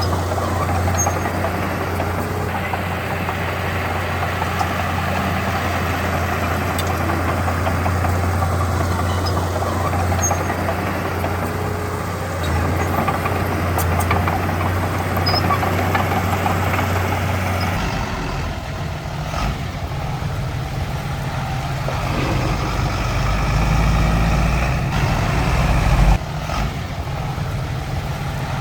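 Diesel engines of heavy earthmoving machines running steadily. The engine sound changes abruptly about two-thirds of the way in, and there is a brief louder moment shortly before the end.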